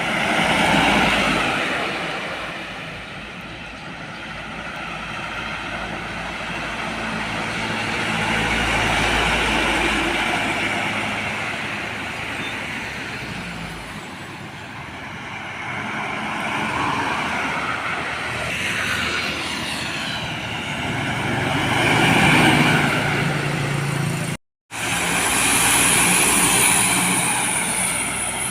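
Heavy vehicles, trucks and buses, driving past one after another on a road. Each pass swells up and fades away, with engine drone and tyre noise. The sound cuts out for an instant near the end.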